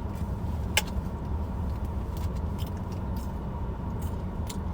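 Steady low rumble of a running vehicle, with a single sharp click just under a second in and a few fainter ticks.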